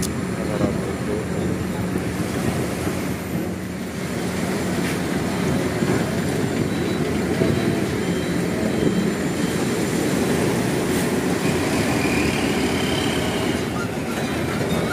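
Heavy trucks' diesel engines running as they drive onto the ferry, a dense steady rumble.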